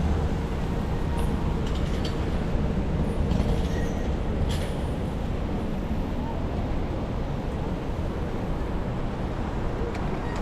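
New York City subway train running with a steady low rumble and a few short metallic clicks in the first half.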